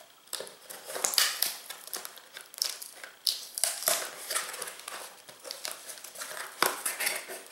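Product packaging being opened by hand: irregular crinkling and rustling, with sharper crackles here and there.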